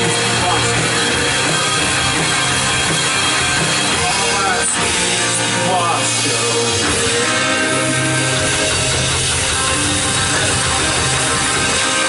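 Worship band playing a rock-style song at a steady, loud level, with drums and sustained chords.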